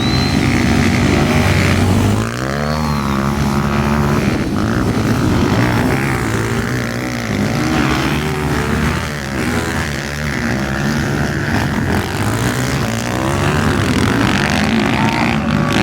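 Motocross bike engines racing, revving up and falling back again and again, with a dip and a sharp rise in pitch about two seconds in.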